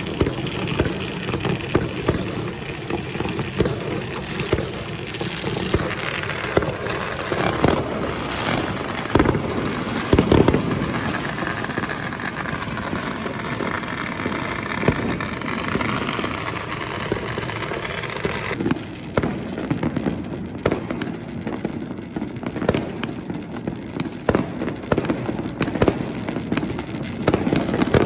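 Many firecrackers and fireworks going off together in a dense, continuous crackle, with louder bangs about ten seconds in. A low steady drone runs underneath during the first part.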